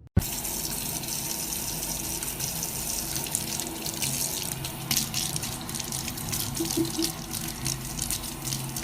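Water running steadily, as from a tap into a sink, with scattered small clicks.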